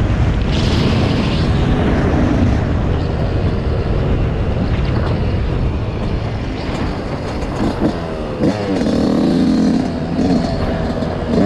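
Dirt bike engine running, with the revs rising and falling several times about two-thirds of the way through.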